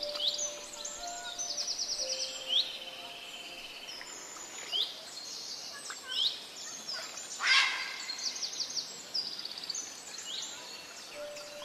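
Birds singing over a steady background hiss: repeated rapid trills and sharp downward-sweeping chirps, with one louder, harsher rasp about seven and a half seconds in.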